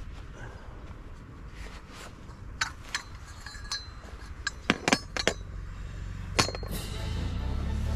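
Camp gear being handled: a run of about seven light metallic clinks and knocks, some ringing briefly, over a low steady rumble.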